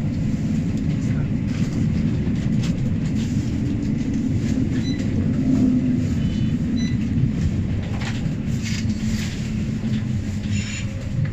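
Midland Metro tram running along the line, heard from inside the passenger car: a steady low rumble of motors and wheels on rail. A few brief higher-pitched sounds come in the second half.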